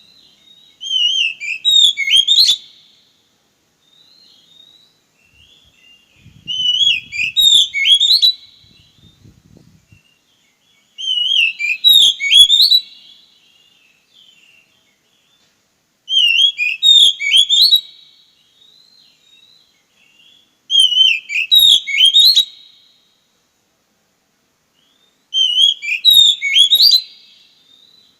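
A songbird singing the same short, fast whistled phrase six times, each about two seconds long, with pauses of two to three seconds between.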